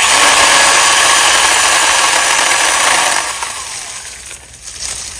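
Small cordless pruning saw cuts through a beech tree's trunk. Its motor starts abruptly and runs steadily for about three seconds, then winds down with a falling whine.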